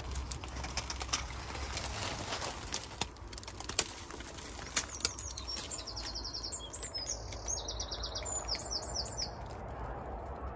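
Vegetation rustling and snapping as it is pushed through, with scattered clicks. About halfway in, a small songbird sings several quick phrases of rapid, high repeated notes.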